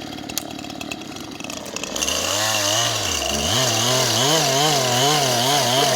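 Two-stroke chainsaw engine running. About two seconds in it gets much louder, its pitch swinging up and down again and again as the throttle is worked.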